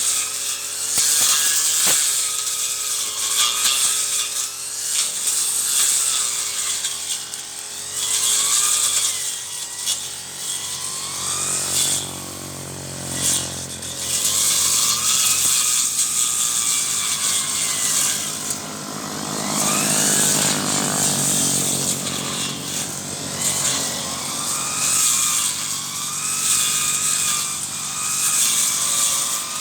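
Brush cutter engine running with its speed rising and falling as it cuts weeds, swelling in repeated bursts every few seconds.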